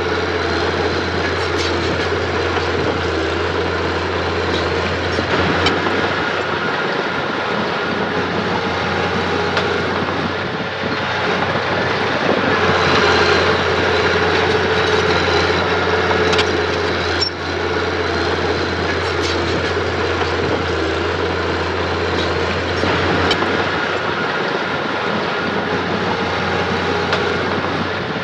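Diesel engine of earthmoving machinery running steadily under work, with a few short metallic knocks scattered through it.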